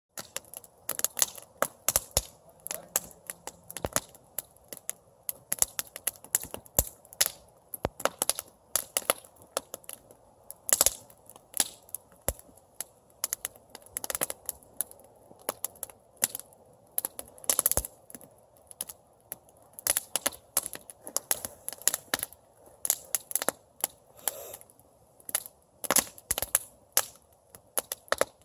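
Campfire crackling: irregular sharp cracks and pops, several a second and some much louder than others, over a faint steady hiss.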